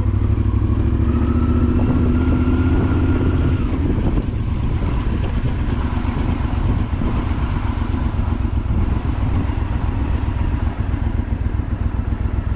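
Honda Varadero XL1000's V-twin engine running as the motorcycle is ridden along, its pitch rising gently over the first few seconds before settling into a steady low rumble.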